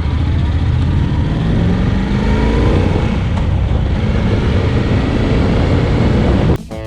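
Honda NC750X parallel-twin motorcycle engine running under way, with rising pitch as it accelerates and a haze of wind and road noise. It cuts off abruptly near the end as guitar music starts.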